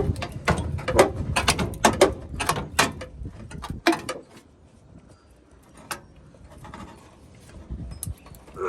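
Hammer blows on the sheet-metal body of a Honda Civic as a panel section is knocked out, sharp metallic strikes about two a second that stop about four seconds in, followed by a few lighter knocks.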